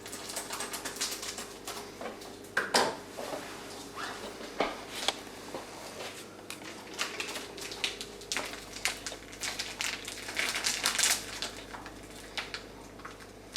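Cheese packaging being opened and handled: irregular crinkling and crackling of the wrapper with small clicks, loudest about three seconds in and again in a dense run near the end.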